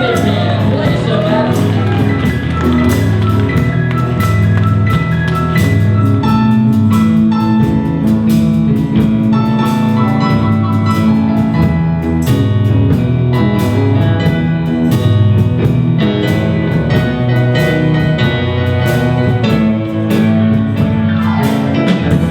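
Live band playing an instrumental passage: a drum kit keeping a steady beat under a bass line and a lead instrument playing held notes.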